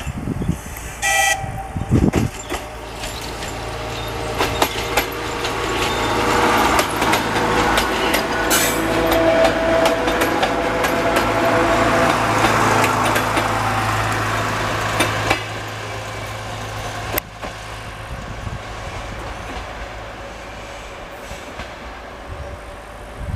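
DT1 diesel multiple unit giving a short horn toot about a second in, then passing close by. The steady diesel hum and the clicking of wheels over rail joints build to a peak midway and fade as the train moves away.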